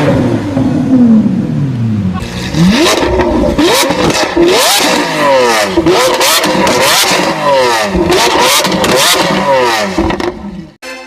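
Car engine revved hard again and again through its exhaust, the pitch sweeping up and dropping back about once a second after an opening fall in revs. It cuts off abruptly near the end.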